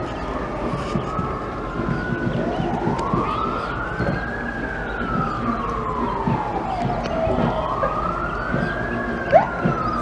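Police siren in a slow wail, its pitch rising and falling over roughly four to five seconds per cycle, with overlapping sweeps. A short, sharp chirp sounds near the end.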